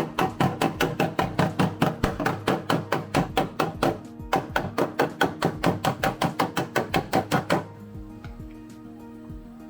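Rapid, even hammer blows on the steel body panel of a Toyota AE86 during sheet-metal repair, about five a second, stopping abruptly about three-quarters of the way in. Background music plays throughout.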